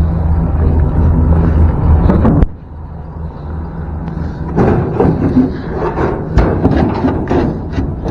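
A truck's 8.1-litre Vortec V8 runs steadily and is cut off abruptly about two and a half seconds in. Then a run of scattered metal clunks and knocks follows as the truck's forks force a part loose.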